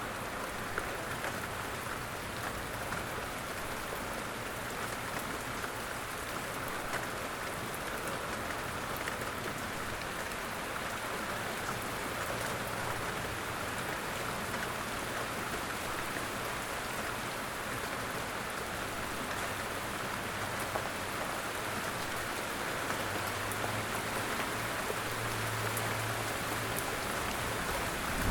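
Steady light rain, an even patter with scattered louder single drops. A faint low hum grows slightly in the last few seconds.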